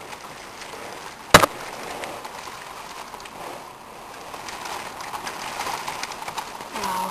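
Steady rushing noise of the tropical storm, with one sharp knock about a second and a half in.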